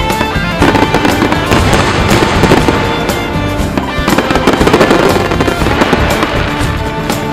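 Fireworks going off in a rapid, dense run of bangs and crackles, with music playing underneath.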